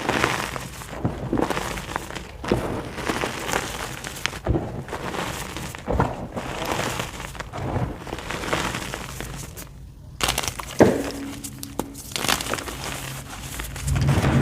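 White gym chalk being crushed and crumbled by hand, soft grinding and crackling with frequent sharp little cracks, the loudest a bit past halfway through.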